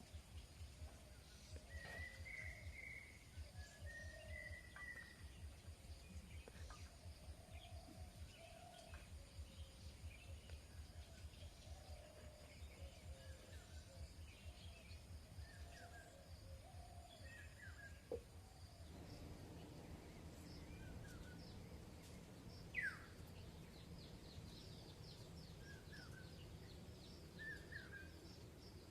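Faint scattered bird calls, short chirps with one sharp downward chirp a little past the middle, over quiet outdoor background noise with a low pulsing hum.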